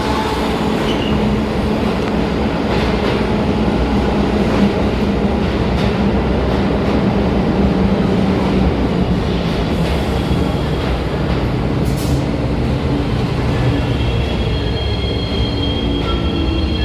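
New York City subway train running loudly along the platform, its steady motor hum shifting lower partway through. Near the end, high-pitched wheel squeal sets in.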